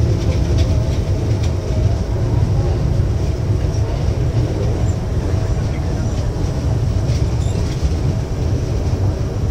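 Mumbai Harbour line local electric train running at speed, heard from its open doorway: a steady rumble of wheels on rail with a faint hum from the train, and wind buffeting the microphone.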